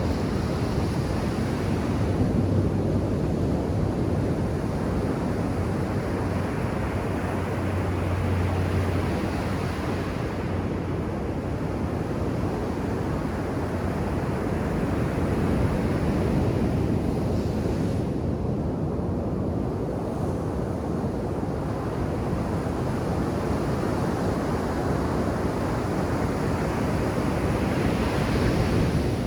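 Ocean surf breaking on a sandy beach: a continuous wash of waves that swells and eases as each set comes in.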